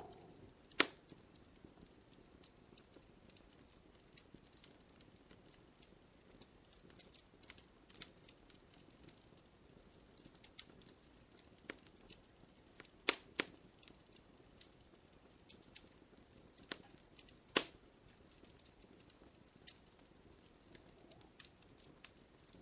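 Wood fire crackling in a fireplace: scattered small pops and snaps over a faint hiss, with a few louder snaps about a second in, around the middle and about three-quarters of the way through.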